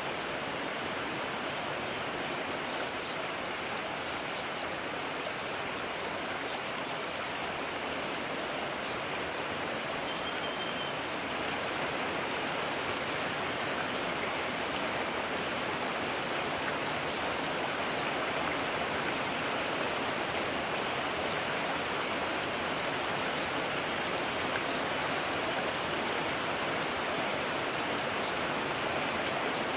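Mountain stream rushing steadily, growing a little louder about twelve seconds in.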